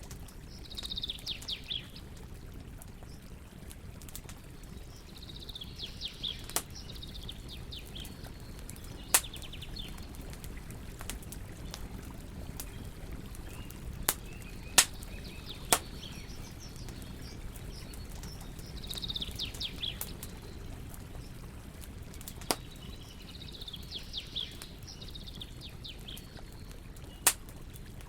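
Wood campfire crackling, with about seven sharp pops scattered over a low steady rush. A songbird sings a short phrase of quick falling chirps four times.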